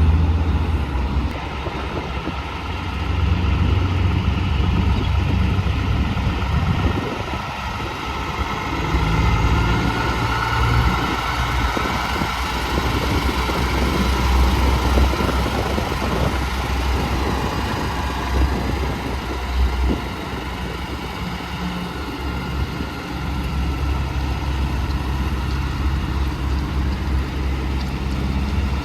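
Road traffic: trucks and cars passing, with a low engine drone and tyre noise whose loudness swells and dips as vehicles come and go.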